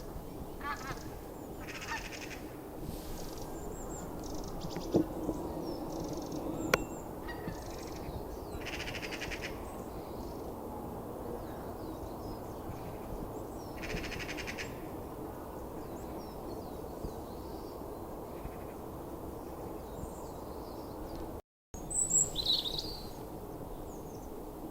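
Small birds calling and chirping, with several short rattling trills, over a steady low background hum. Two sharp clicks come about five and seven seconds in, and the loudest calls come near the end, just after a brief dropout in the sound.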